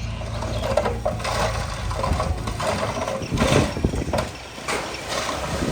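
Diesel engine of heavy earthmoving equipment running steadily, with an irregular clatter of working noise laid over it that drops away briefly near the end.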